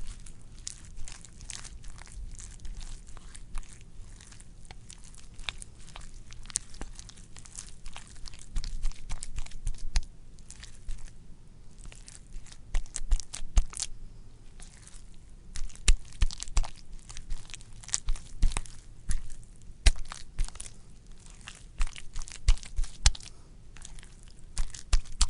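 Wet, squishy squelching with a dense run of irregular crackles and sharp pops, the pops coming louder and more often in the second half.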